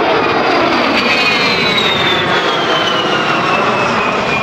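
Fairchild Republic A-10 Thunderbolt II's twin TF34 turbofan engines on a low display pass: a loud, steady rush of jet noise. Over it, a high whine falls steadily in pitch as the jet goes by.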